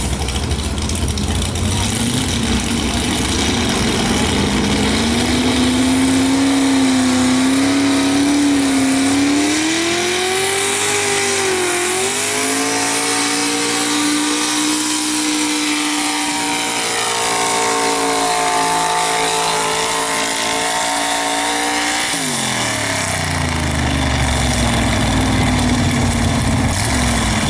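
Super stock two-wheel-drive pickup truck engine at full throttle under heavy load, pulling a sled, its pitch climbing and wavering as it bogs and recovers. About 22 seconds in the revs fall away sharply to a low idle as the throttle is let off at the end of the pull.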